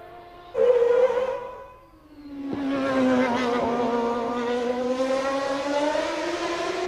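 Formula One race car engines at high revs. One car bursts in loud and fades within a second or so, then a second engine builds up and runs on, its pitch sagging slightly and then climbing again.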